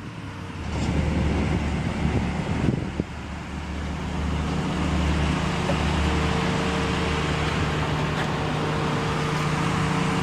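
A motor vehicle running steadily, a low hum, joined about four seconds in by a steadier, higher engine tone.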